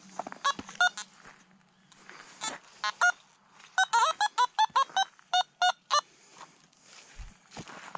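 A bird calling outdoors in short, clear, ringing notes. A few come singly, then about ten follow in a quick run around the middle.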